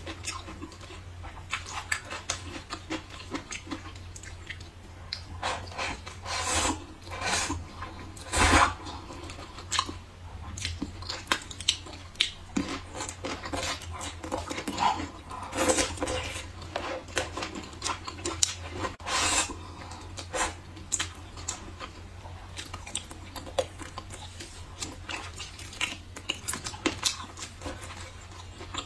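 Close-miked chewing and crunching of braised bamboo shoots, with wet mouth clicks and a few louder crisp bites scattered through.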